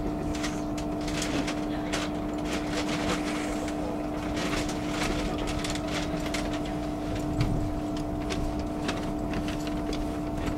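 Passenger train interior while running: a steady low rumble and a constant whine, with irregular light clicks and rattles throughout.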